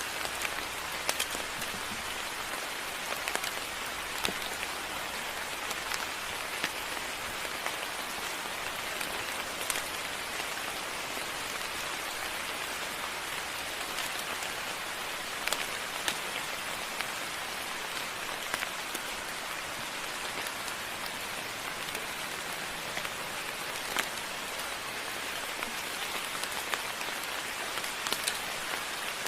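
Steady moderate rain falling, with scattered sharper drops striking nearby surfaces every second or so.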